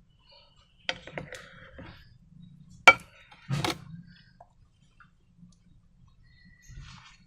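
Sharp clicks and short crackling squelches from slime and balloons being handled, the loudest a single sharp snap about three seconds in.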